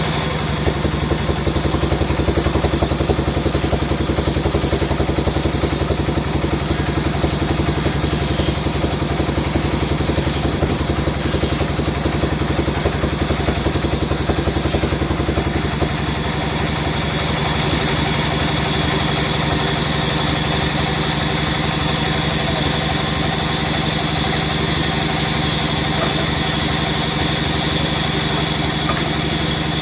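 Sawmill machinery running with a steady, loud engine-like hum. It has a fast rattling ripple through the first half and settles smoother about halfway through.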